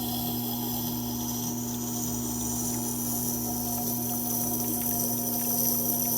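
Tormek T8 water-cooled grinder running with a steady motor hum while a pocket-knife blade is drawn lightly along the wet turning stone, giving a steady high hiss of light finishing passes. The hiss cuts off suddenly at the very end as the blade is lifted away, and the motor hum carries on.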